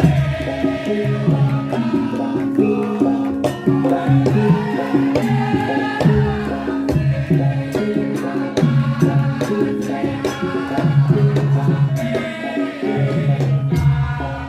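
Javanese gamelan music for a Wonosobo lengger gending: held metallophone tones over a steady beat of drum strokes, with a singing voice weaving above.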